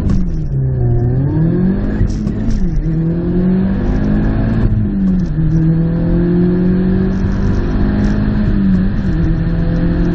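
Audi S3's turbocharged four-cylinder engine at full throttle from a standing start, heard from inside the cabin. The revs dip as the car launches, then climb and drop at upshifts about 3, 5 and 9 seconds in.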